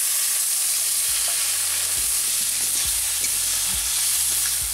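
Loud, steady sizzling of wet ground spice paste that has just gone into hot oil in a wok with fried potato pieces. A metal spatula stirring it knocks and scrapes against the pan about once a second.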